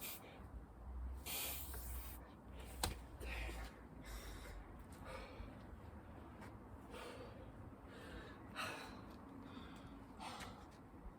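A person breathing hard, with loud gasping breaths every second or two, winded from a long set of burpees and chin-ups.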